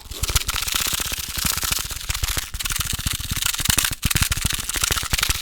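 Fast, aggressive scratching and tapping right on a highly sensitive microphone: a dense, rapid run of scratchy hits with heavy low thumps, pausing for an instant about four seconds in.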